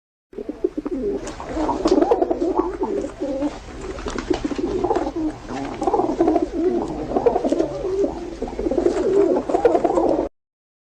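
Several pigeons cooing at once, their low warbling calls overlapping continuously. The sound cuts off abruptly near the end.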